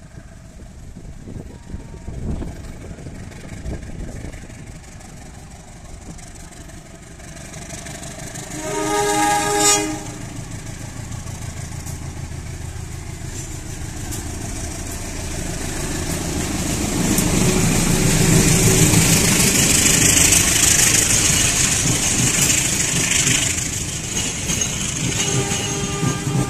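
Diesel locomotive of a passenger train sounding its horn once for about a second and a half, some nine seconds in. The engine and the steel wheels on the rails then grow louder and stay loud as the locomotive and carriages roll past close by, with a high hiss from the wheels and track.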